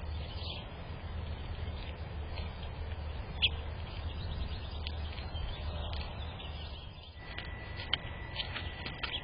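Small birds giving short, sharp chirps several times over a steady low rumble. A thin steady high tone comes in about seven seconds in.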